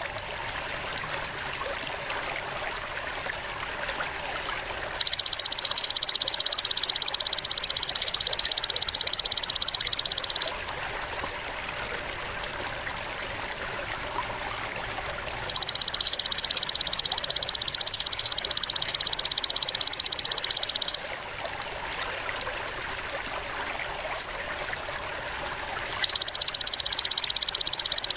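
Belalang emas (golden grasshopper) calling: a loud, high-pitched, rapidly pulsing buzz that lasts about five seconds, three times about ten seconds apart. Between the calls there is a faint rushing background.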